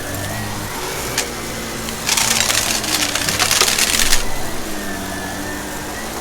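Vacuum cleaner running steadily; about two seconds in, a burst of dense crackling and rattling lasts about two seconds as it sucks up crunchy debris.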